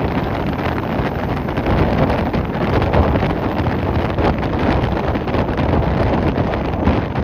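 Strong wind blowing across the microphone: a loud, steady rumble that swells and eases with the gusts.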